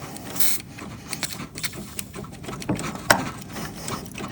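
Irregular small metallic clicks and knocks as tools work at a seized clevis pin on a Porsche 356 clutch cable, trying to wriggle it free; one sharper knock about three seconds in.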